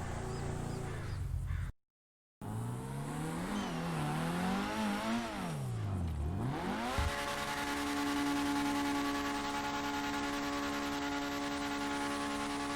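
Car engine revving, its pitch rising and falling several times, then holding a steady drone at constant speed. The sound cuts out briefly near the start.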